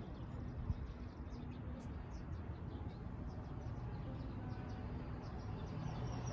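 Outdoor ambience: a steady low rumble with many small, quick, high bird chirps scattered throughout.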